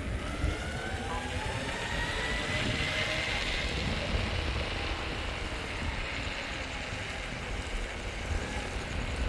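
Electric unicycle's hub motor whining as it accelerates, the pitch rising over the first three seconds and then holding steady, with wind rushing over the microphone.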